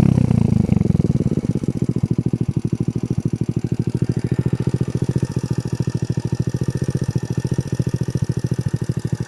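80 cc Hero Honda motorcycle engine with an aftermarket Akrapovič exhaust, its revs dropping back in the first second and then idling with a steady, even pulsing beat.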